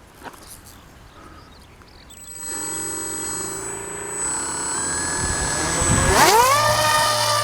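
Small motor of a Magnus-effect model aircraft spinning its rotating plates: a steady whine starts about two and a half seconds in, then rises sharply in pitch about six seconds in and holds at the higher speed.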